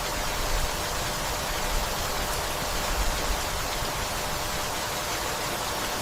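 Steady, even rainfall hissing down, with a few brief low rumbles underneath.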